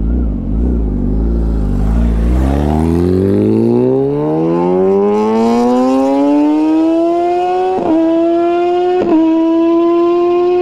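2018 Kawasaki ZX-10R's inline-four with an Austin Racing full exhaust system, idling with a low rumble, then revved so its pitch climbs steadily over about four seconds to a loud, high scream that is held, dipping briefly twice near the end.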